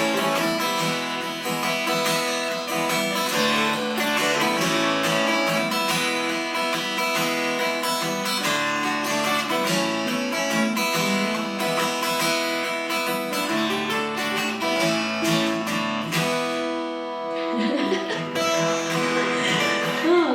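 Acoustic guitar strumming chords, the instrumental ending of a song after the last sung line.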